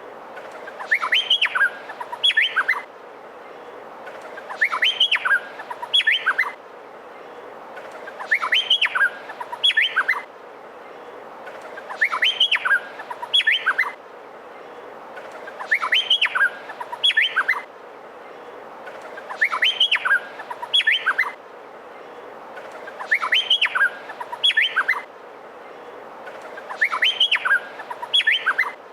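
Male Meliphaga honeyeater singing: the same short phrase of sharp, rising whistled notes repeats about every four seconds, over a steady hiss.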